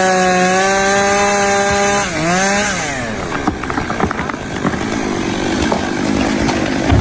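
A small engine or motor running at a high, steady pitch. About two seconds in it dips and rises once, then falls away, and rattling and clattering with scattered clicks follow.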